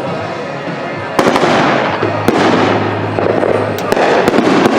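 Consumer fireworks going off: a continuous crackling wash with sharp pops and bangs, one about a second in, one around two seconds and a quick cluster near the end.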